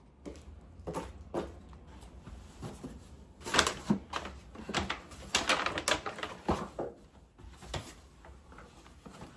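A series of irregular clicks and knocks with a few short squeaks, the busiest stretch in the middle.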